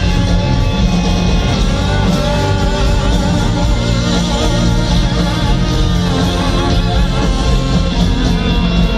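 Live rock band playing an instrumental passage: guitar over steady bass and drums, with sustained wavering melody notes above.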